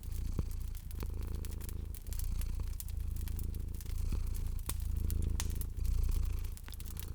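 Domestic cat purring, the low rumble swelling and easing about once a second with each breath, over the sharp scattered crackles of a wood fire.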